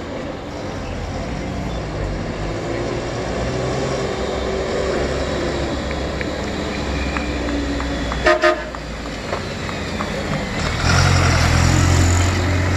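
Vehicle horn giving two short toots in quick succession about eight seconds in, over the steady running of race vehicle engines. Near the end a heavy engine grows louder.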